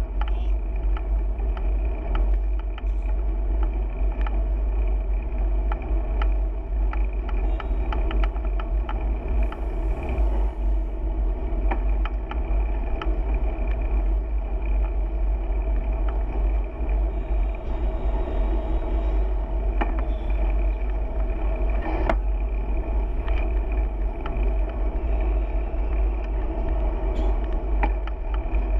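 Steady wind rumble on the microphone and road noise from a bicycle moving at riding speed, with frequent small clicks and rattles.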